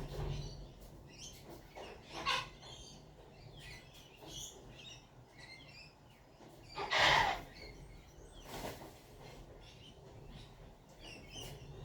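Wild birds chirping in short, scattered notes, with two louder, harsher sounds about two seconds and seven seconds in.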